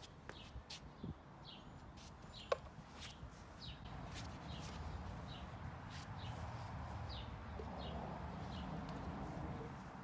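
A small bird chirping over and over, about one short chirp every half second, with a few light clicks and footsteps and one sharp click about two and a half seconds in. A low rumble builds from about four seconds in.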